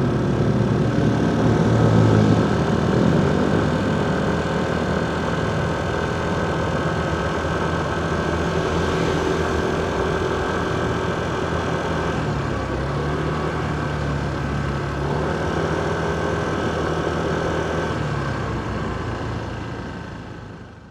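Motorcycle engine running in city traffic, with road noise and the sound of surrounding vehicles; the engine pitch changes a few times and everything fades out near the end.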